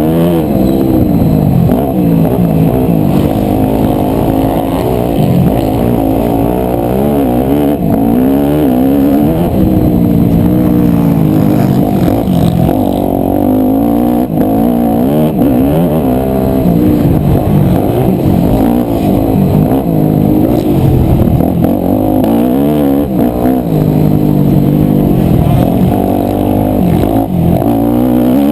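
A 250cc four-stroke single-cylinder motocross bike engine being ridden hard around a dirt track. It revs up and drops back over and over, its pitch climbing and falling every second or two with throttle and gear changes.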